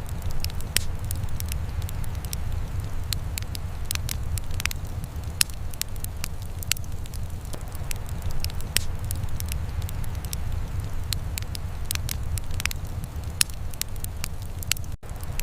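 Wood fire crackling in a fireplace: irregular sharp pops and snaps over a steady low rumble, with a brief dropout near the end.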